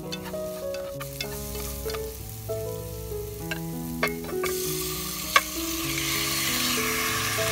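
Frying in a hot pot: marinated beef chunks tipped onto sizzling lemongrass and spices set off a loud sizzling hiss a little past halfway. A couple of sharp knocks against the pot, the loudest about two-thirds of the way through, over background music with a simple melody.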